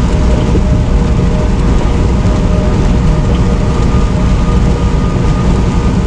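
Steady road and engine noise inside a semi truck's cab while driving: a loud, even low rumble with a faint steady whine above it.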